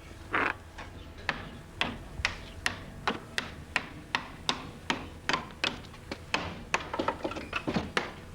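Rhythmic series of sharp knocks, about two a second, coming a little quicker near the end.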